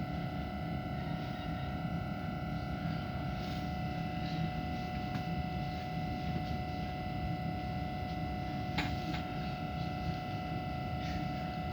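Steady drone inside a stopped train carriage: a low rumble with several constant faint tones from the train's ventilation and electrical equipment, and one brief click about nine seconds in.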